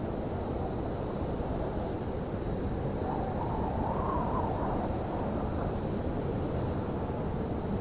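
Railyard ambience: a steady low rumble with a thin, steady high whine over it, and a faint wavering tone rising and falling about three to five seconds in.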